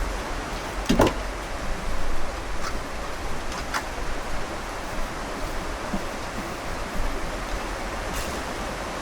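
Steady rain falling, with a few light clicks and knocks over it, the sharpest about a second in.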